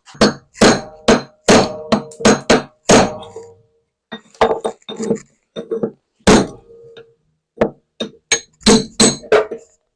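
Hammer blows on a steel drift, knocking the water seal and the failed drum bearing out of a front-loading washing machine's bearing housing. The blows come in two quick runs with a short pause between, each strike ringing briefly, one about six seconds in the loudest.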